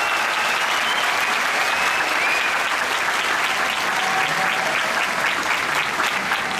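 Large crowd applauding steadily, a dense even clapping throughout.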